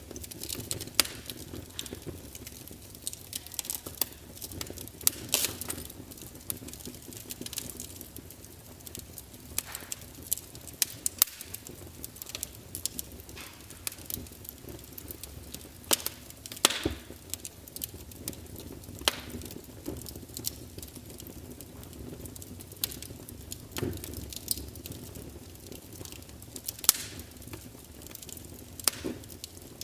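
Burning wood fire crackling: irregular sharp pops and snaps, a few of them loud, over a steady low rumble of the flames.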